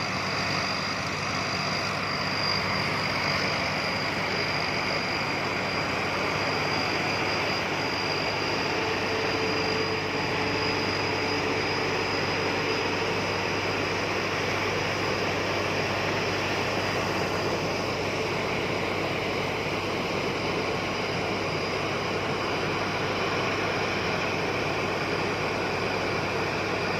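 Rice combine harvester running steadily, a constant engine drone with a thin high whine over it.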